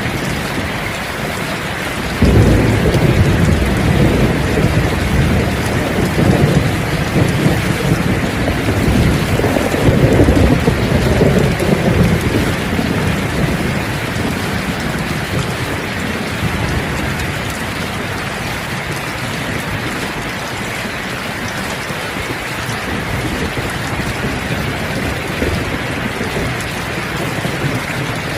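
Steady heavy rain, with a rolling rumble of thunder that breaks in suddenly about two seconds in, swells twice and dies away after about ten seconds, leaving the rain alone.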